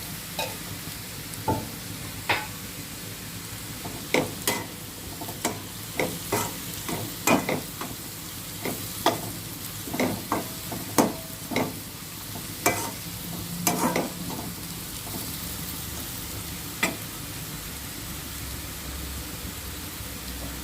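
Carrot fry sizzling in oil in a pan while a spatula stirs it, knocking and scraping against the pan at irregular intervals. The knocks stop a few seconds before the end, leaving the steady sizzle.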